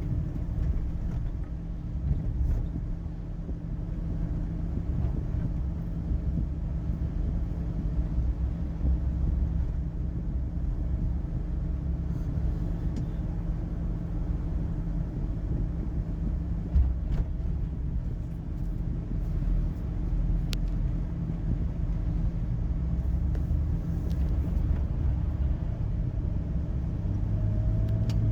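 Car engine and tyre rumble heard from inside the cabin of a moving taxi, steady. Near the end the engine note rises as the car accelerates.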